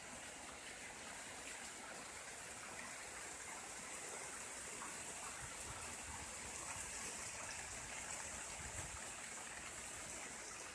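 Heavy rain pouring down, a steady hiss of falling and running water.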